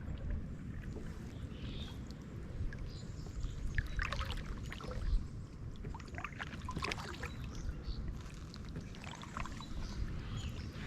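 Kayak paddle strokes: water splashing and trickling off the blades in scattered clusters, over a steady low rumble.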